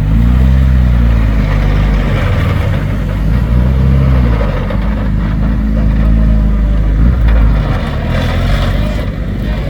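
BAC Mono R's four-cylinder engine running just after start-up, blipped a couple of times so the revs rise and fall, then held at a steady idle.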